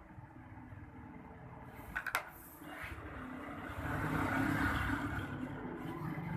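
Street traffic noise: a steady low rumble with a couple of sharp clicks about two seconds in, then a louder swell as a vehicle passes from about halfway on.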